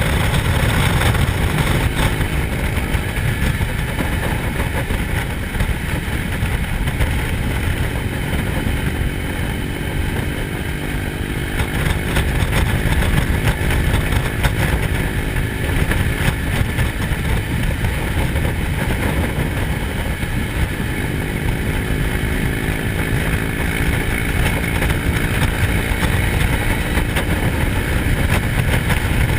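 Motorcycle engine running steadily under a continuous low rushing noise, its pitch drifting slightly up and down.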